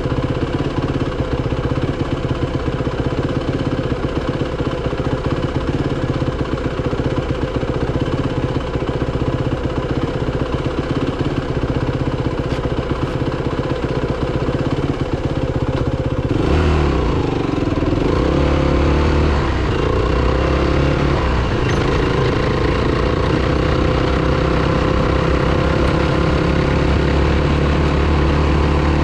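Dirt bike's single-cylinder four-stroke engine running steadily on a trail ride. A little past halfway its note changes suddenly, grows stronger, and rises and falls for a few seconds as the revs change.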